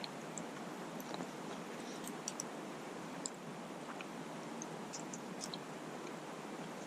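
Wood fire crackling: sparse, irregular small sharp pops over a steady soft hiss.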